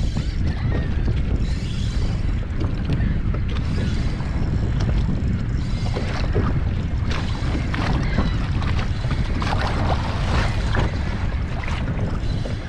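Wind rumbling on the microphone of a kayak, steady throughout, with irregular small clicks and water splashes on top.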